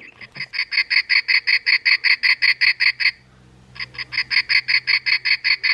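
Recorded cactus wren song played from a Wild Republic plush bird's built-in sound chip: a fast run of evenly repeated notes, about six a second, stopping about three seconds in and starting again after a short gap.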